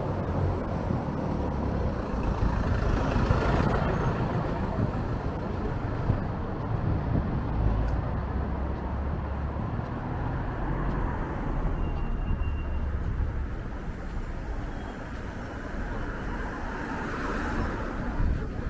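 Strong wind buffeting the microphone over steady street traffic, with vehicles swelling past about three seconds in and again near the end.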